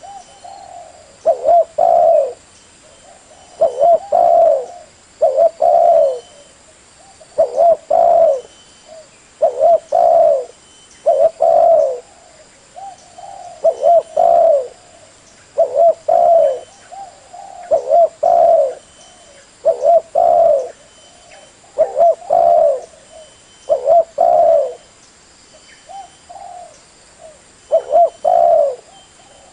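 Spotted dove cooing over and over, a short phrase of a few low notes repeated about every two seconds.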